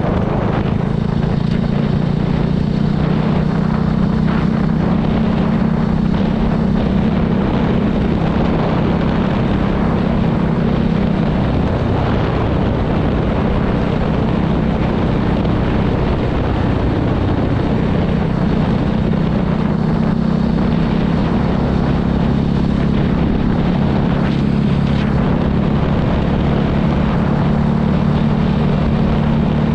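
Voge 300 Rally's single-cylinder engine running steadily under way, easing off for a few seconds about twelve seconds in before pulling again, with a steady rush of wind noise.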